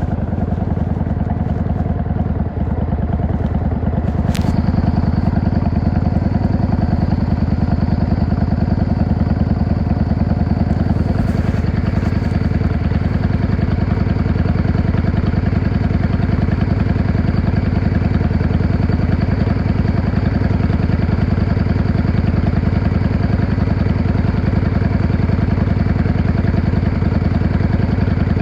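Yamaha XVS 650 V-Star's air-cooled V-twin running at a fairly steady engine speed while the bike cruises, heard from the rider's seat. There is a sharp click about four seconds in, and a faint high whine runs from then on.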